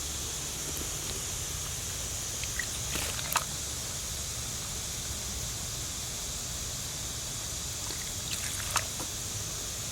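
Steady outdoor hiss with a low rumble beneath it, broken by two brief clicks, one about three seconds in and one near the end.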